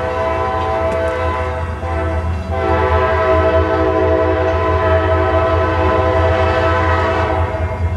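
Diesel locomotive (CSX GP39-2 #4309) sounding its multi-note air horn in two long blasts, the second starting a couple of seconds in, over the rumble of its diesel engine.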